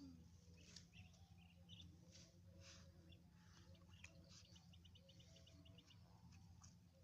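Faint chirping of small birds, short high calls scattered throughout, with a quick run of about ten rapid chirps a little past four seconds in, over a steady low hum.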